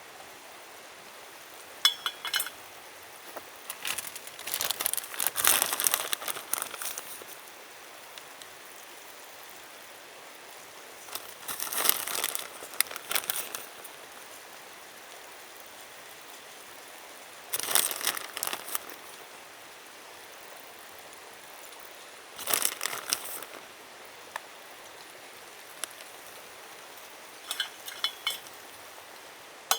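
Crinkling and rustling of something being handled, in short bursts about every five or six seconds. A light clink comes about two seconds in and another near the end.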